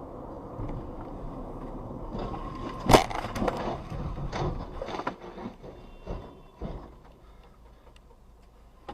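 A car collision: a single loud bang of impact about three seconds in, followed by a few smaller knocks and rattles of debris over a low road rumble that dies down toward the end.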